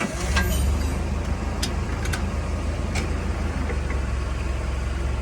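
Heavy truck's diesel engine running steadily with an even low rumble, with a few light clicks over it.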